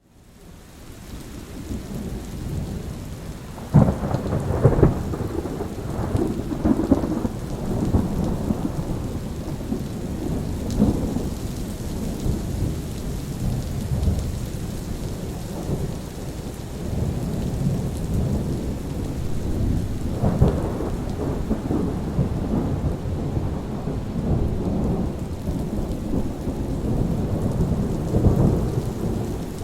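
Steady rain with rolling thunder. The rain fades in over the first few seconds, then thunder cracks sharply about four seconds in and again about twenty seconds in, rumbling on in between.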